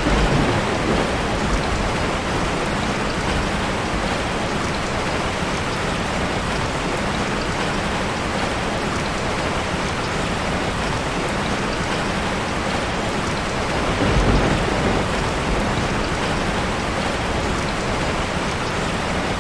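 Steady, dense rushing of water, with a deeper swell at the start and another about fourteen seconds in. The sound cuts off abruptly at the end.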